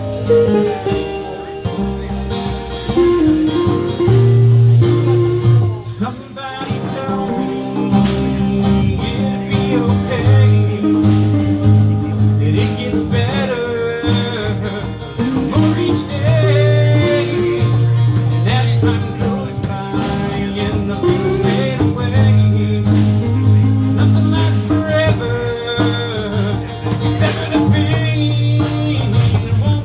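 Live blues band playing, with guitar over a strong bass line and drums.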